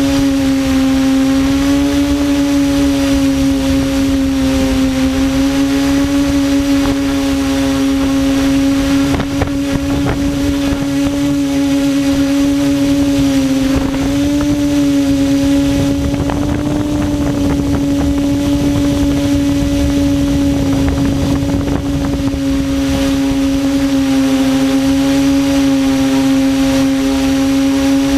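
Electric motors and propellers of a QAV400 quadcopter running, a loud steady hum that wavers slightly in pitch, with a rushing noise that grows stronger for a few seconds in the middle.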